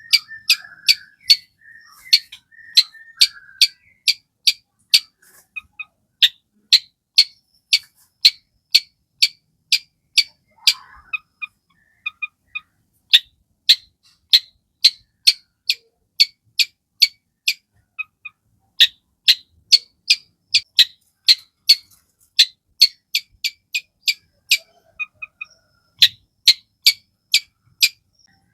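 Long-tailed shrike (cendet) in full song: fast runs of short, sharp, high notes, about three a second, broken by a few brief pauses.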